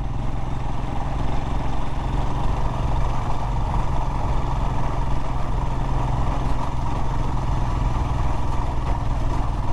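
Royal Enfield Himalayan's single-cylinder engine running steadily under way as the motorcycle rides a rough, rutted dirt road.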